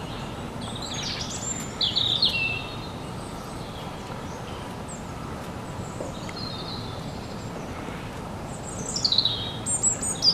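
Birds chirping: short, quick phrases of falling notes, one burst about a second in and another near the end, over a steady background hiss.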